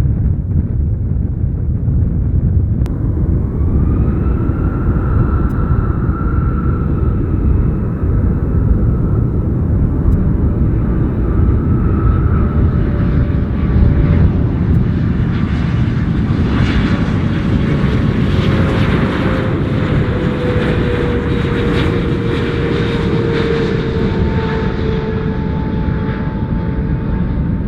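Jet airliner on landing approach passing the listener. Its engine whine comes in about four seconds in, and the rush of engine noise swells to a peak about two-thirds of the way through while the whine slides down in pitch as it goes by. A steady low rumble runs underneath.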